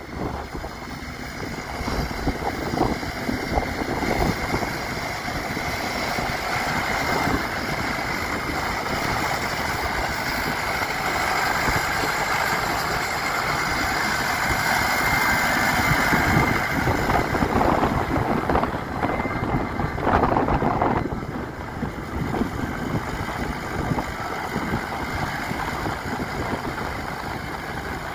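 Massey Ferguson 5455 tractor's four-cylinder diesel engine running steadily. It gets louder through the middle and drops back suddenly about twenty seconds in.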